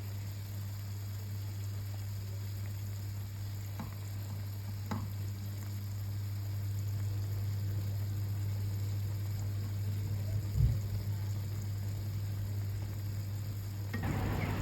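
Food sizzling as it fries in a pan, over a steady low hum. There are two light clicks about four and five seconds in, and a short knock near eleven seconds.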